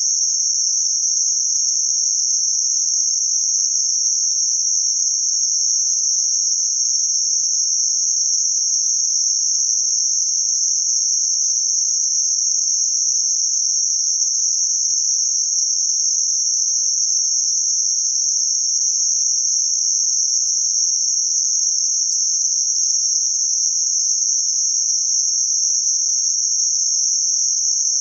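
Synthetic noise filtered into a narrow band centred around 6051 Hz: a steady, even high-pitched hiss with nothing beneath it.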